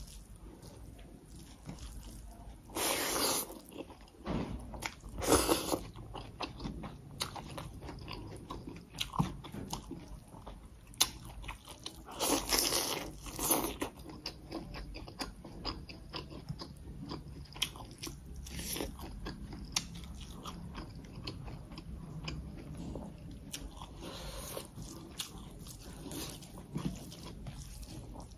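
Close-miked chewing and wet mouth sounds of someone eating rice, greens and chicken by hand, with many small clicks and a few louder bursts about three and five seconds in and again around thirteen seconds.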